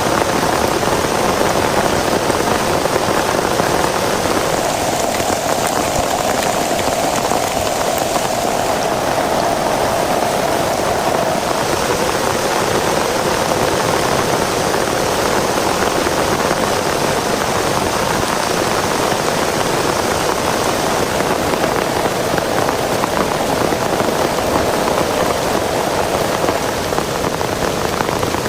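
Heavy rain falling steadily and hard, a dense even hiss with no let-up.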